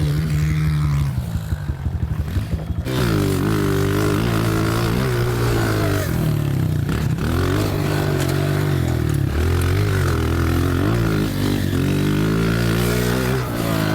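Honda CRF125 pit bike's single-cylinder four-stroke engine ridden hard, its pitch rising and falling repeatedly as the throttle is opened and closed. About a second in it drops off throttle to an uneven crackle, then picks up again at about three seconds.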